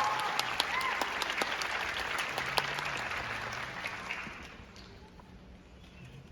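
Audience applauding, the clapping thinning out and dying away over about four and a half seconds.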